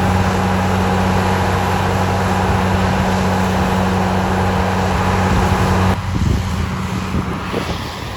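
Heavy engine of snow-removal machinery running steadily with a low hum, which cuts off abruptly about six seconds in. Gusty wind on the microphone follows.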